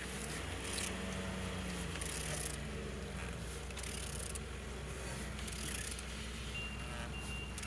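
A removed used engine being turned over by hand, with faint scraping and mechanical noise over a steady low hum. A vehicle's reversing beeper starts beeping near the end.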